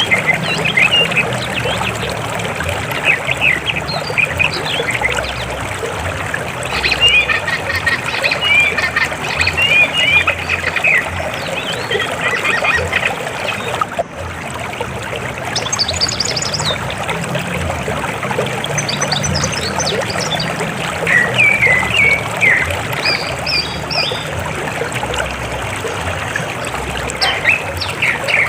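River water flowing steadily, with birds chirping and calling at intervals over it.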